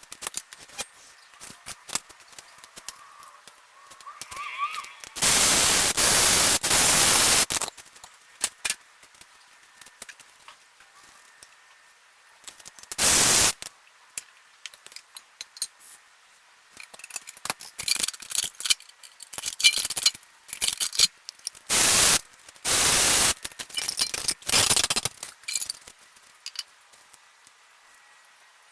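Scattered metallic clinks and rattles of garage work, broken by several loud bursts of rushing noise lasting up to a couple of seconds.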